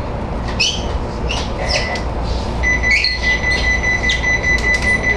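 Steady low rumble of a halted electric train standing after an emergency stop, with scattered short high squeaks and a steady high-pitched tone that starts a little past halfway and holds to the end.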